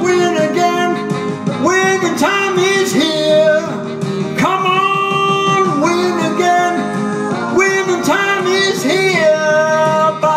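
A song: singing over guitar accompaniment, with held, gliding sung notes.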